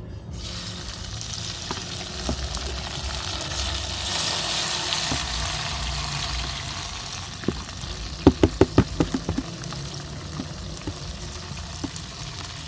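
Chopped seasoning frying in hot oil in a cooking pot, the sizzle starting suddenly and swelling for a few seconds before easing. About eight seconds in, a quick run of metallic clinks as a spoon stirs against the pot.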